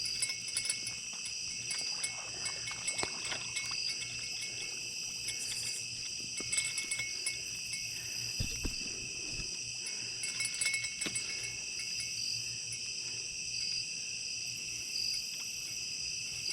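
A steady chorus of night insects, crickets among them, in several unbroken high-pitched bands, with a few faint clicks and a soft low thump about halfway through.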